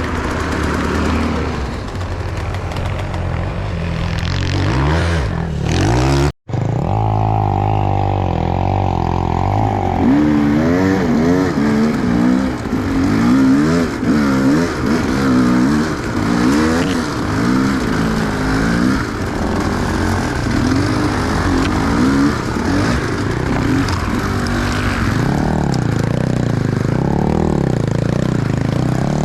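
Enduro motorcycle engine revving up and down over and over, its pitch rising and falling in quick swings. The sound cuts out for an instant about six seconds in, then carries on.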